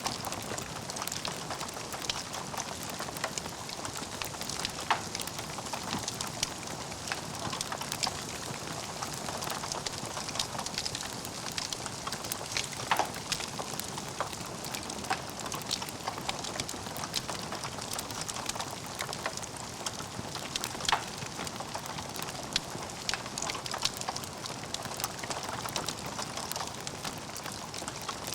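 Logs burning in a fireplace, crackling steadily with frequent sharp pops, a few of them much louder than the rest.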